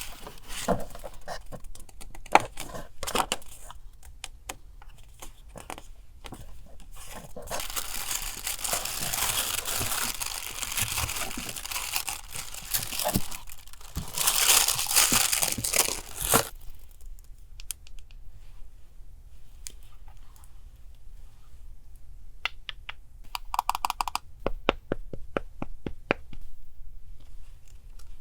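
Paper being handled, with a long stretch of crinkling and tearing in the middle, set between light taps and clicks of paper and craft materials on a desk.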